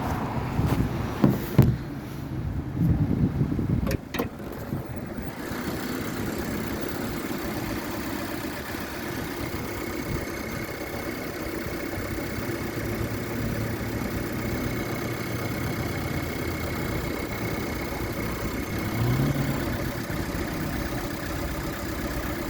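A 2020 Subaru Impreza's 2.0-litre flat-four engine idling steadily. A few sharp knocks and clunks sound in the first five seconds, and there is a brief swell in the engine note near the end.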